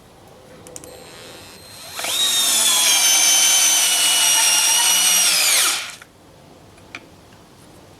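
Small cordless screwdriver's motor running under load into wood for about four seconds, a steady high whine starting about two seconds in, then dropping in pitch and stopping.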